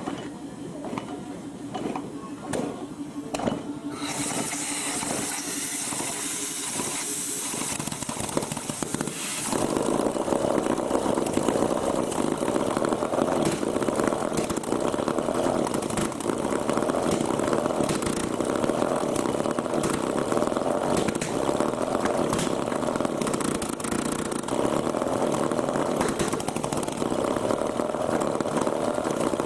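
Small homemade rotary engine being started: irregular pops and clicks for the first few seconds, then a hiss, and about nine seconds in it catches and runs steadily with a buzzy, chainsaw-like note.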